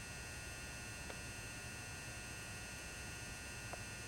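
Steady electrical hum with a faint high-pitched whine from a lit 400-watt mercury vapour high bay lamp's ballast, with two faint ticks.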